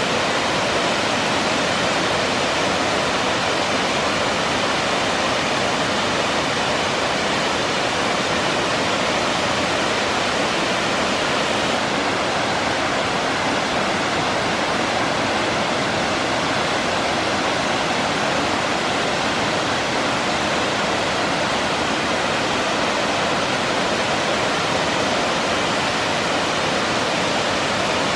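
Waterfall: water pouring over the falls into the pool below, a loud steady rushing.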